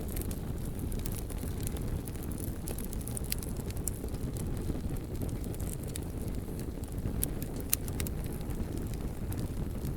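Bonfire of wood logs burning with a steady low rumble and scattered sharp crackles and pops, a few of them louder, near the middle and again a little later.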